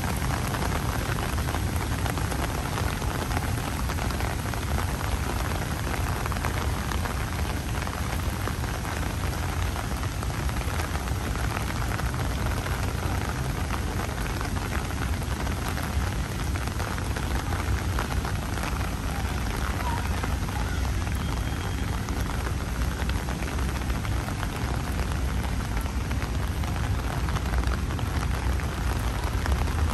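Steady rain falling on wet pavement and trees, a continuous even hiss with a low steady rumble underneath.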